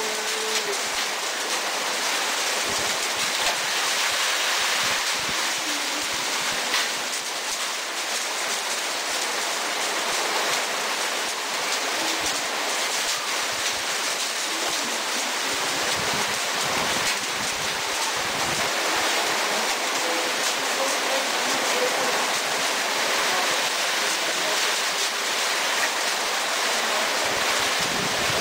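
Hailstorm: hailstones and rain beating down together, a dense, steady hiss.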